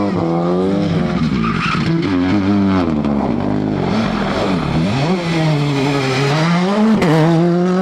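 Rally car engine revving hard, its pitch dropping and climbing again several times as the throttle is lifted and reapplied.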